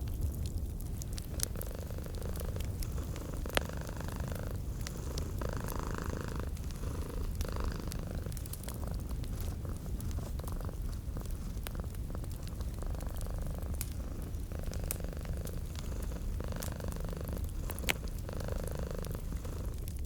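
Domestic cat purring steadily, a continuous low rumble that swells and eases with each breath, mixed with sharp, sparse crackles and pops from a wood fire.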